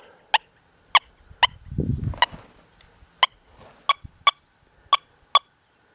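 XP Deus 2 metal detector on its 'bird dog' program giving a series of short, high beeps as the coil is swept, about nine in all at uneven spacing. They signal detection of an old relic target lying under nails.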